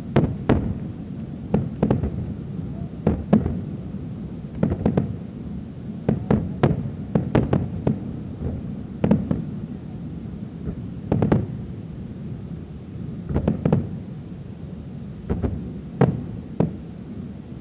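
Aerial fireworks bursting: an irregular run of sharp bangs, some in quick pairs and clusters, each followed by a short echo.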